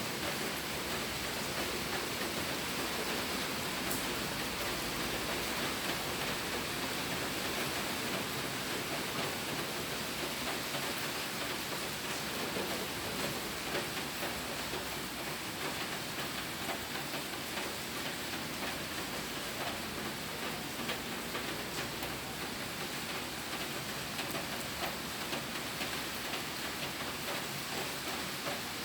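Steady rain falling, an even hiss with many small drop ticks and no letup.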